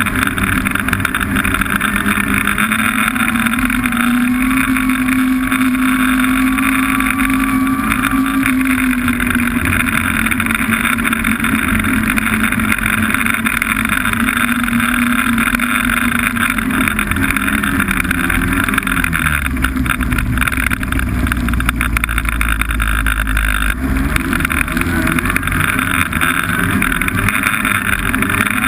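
Snowmobile engine running under way, its pitch steady at first, then falling away about two-thirds of the way through as the sled slows, with a deep low rumble for a few seconds before the engine picks up again. A steady rushing noise runs underneath.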